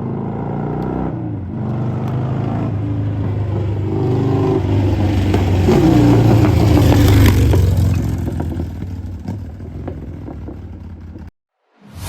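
2006 Harley-Davidson FXDB Dyna's V-twin engine, fitted with an aftermarket carburettor and Rinehart exhaust, running: it grows louder to a rev peak a little past halfway, then eases back. The sound cuts off abruptly shortly before the end.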